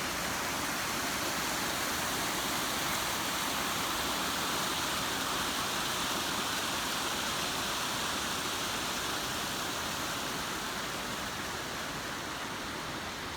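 Steady rush of falling or flowing mountain water, an even hiss with no breaks, easing a little near the end.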